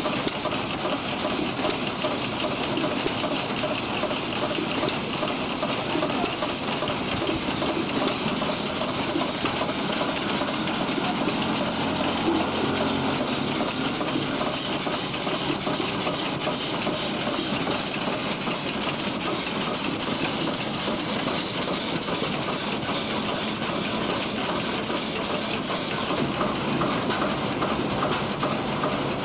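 1903 New Giant steam traction engine running, steam hissing steadily over a fast, even beat from the engine.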